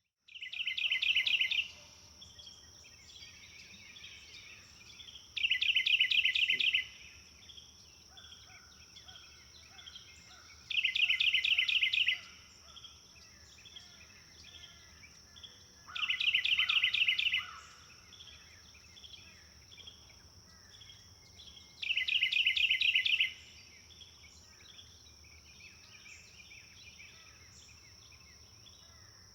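A songbird repeating a loud, rapid trill of about a second and a half, five times at roughly five-second intervals, with softer chirps from other birds between them and a steady high-pitched insect drone underneath.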